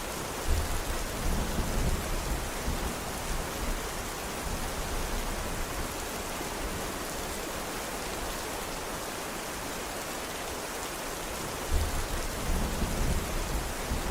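Steady rainfall hissing. Two low rumbles of distant thunder roll under it, one starting about half a second in and lasting a few seconds, another beginning near the end.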